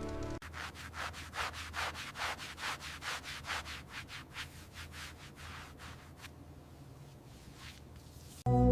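Cloth rubbing back and forth across glass in quick strokes, about four a second, fading out after about six seconds. Music cuts in loudly near the end.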